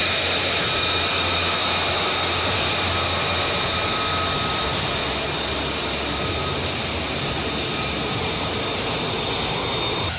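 Jet engine running steadily: a loud rushing noise with a steady high-pitched whine on top.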